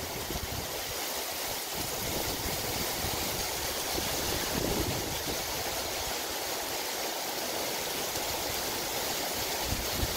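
Heavy rain falling steadily on pine trees and forest, an even hiss.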